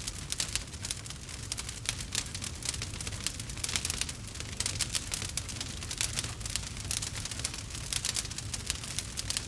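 Logs burning in a fireplace, crackling steadily with a dense run of small pops and snaps over a low, constant rumble.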